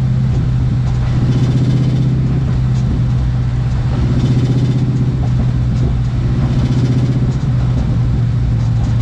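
Car engine and exhaust on a test drive: a steady low drone, with an engine note that swells and eases several times. The exhaust has a header leak that the owner says is still coming through.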